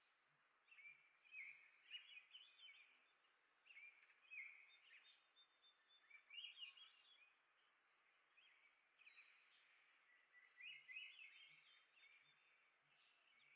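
Small songbirds chirping and twittering faintly in quick bursts of short notes, with brief pauses between phrases.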